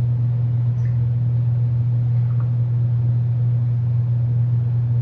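A steady low hum that keeps the same pitch and level throughout, with a few faint small sounds over it.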